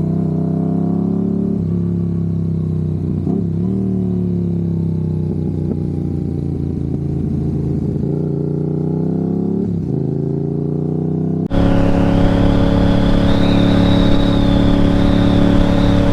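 Motorcycle engine running at a steady cruise, its pitch drifting gently up and down. About eleven seconds in the sound changes abruptly: louder, with more hiss and a steady high whine over the engine.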